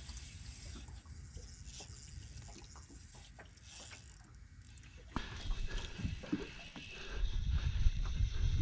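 Fishing reel ratcheting and clicking as a hooked fish is played. A low rumble comes in about five seconds in and grows louder toward the end.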